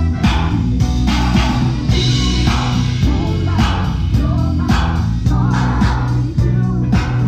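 Live band playing an upbeat rock-funk number: a steady drum beat under bass guitar and electric guitar.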